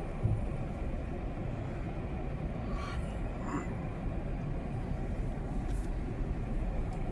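Steady low rumble of a vehicle running, with two faint brief sounds about three seconds in.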